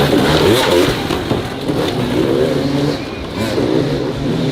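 Several motor vehicle engines revving, their pitch repeatedly climbing and dropping and overlapping one another.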